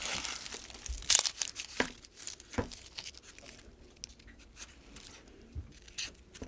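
Crinkling and tearing handling noise, with scattered short clicks and knocks.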